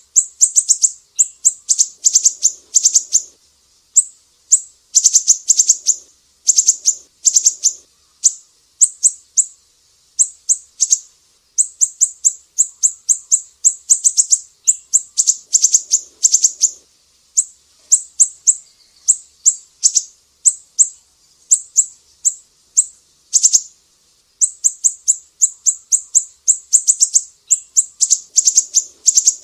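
Sumatran siri-siri songbird singing in quick runs of sharp, high chirps. The phrases last a second or two, with short pauses between them.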